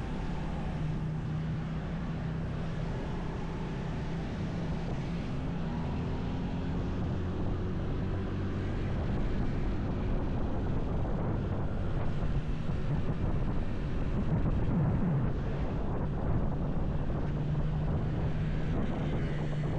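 Motorcycle engine running while riding, its pitch rising for a few seconds early on and then holding steady, with wind rushing over the microphone.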